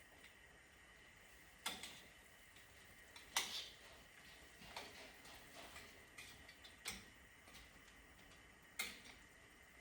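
A few light clicks and knocks of a cooking utensil and potato chunks against a soup pot, about five spread unevenly, each with a short ring, over a faint steady high hum.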